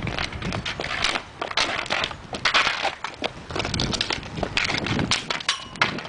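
Ball hockey play: irregular crunching and scraping with many sharp clicks from sticks, feet and ball on the ground.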